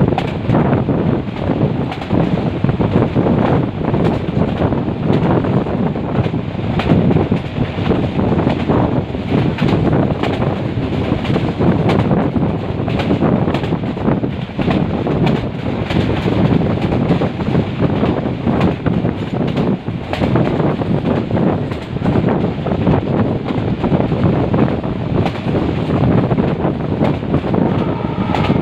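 Metre-gauge passenger train running, heard from on board: a steady rumble and rattle of wheels on track with wind buffeting the microphone.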